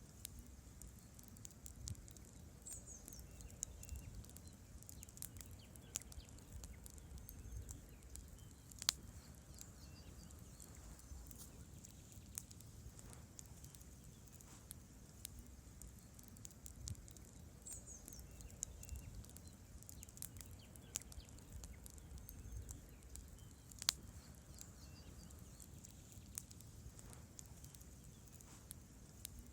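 Wood campfire burning, with a low rumble of flame and scattered small crackles. Two louder sharp pops come about a third of the way in and again near three quarters.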